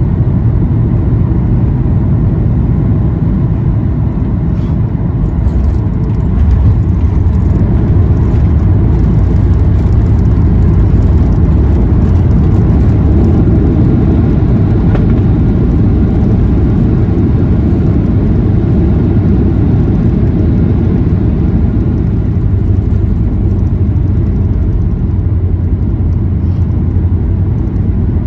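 Cabin noise inside a Boeing 737-800 on the ground after landing: a steady low rumble of its CFM56 engines and rolling gear, getting slightly louder about six seconds in.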